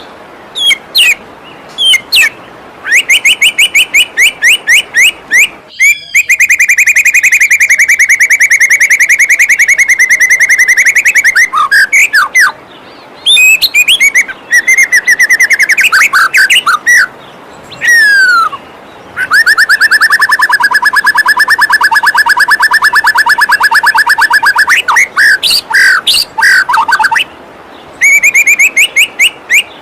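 White-rumped shama (murai batu) song: bursts of fast, repeated whistled notes and sweeping glides, with two long rapid trills of several seconds each, over the steady rush of a flowing waterfall.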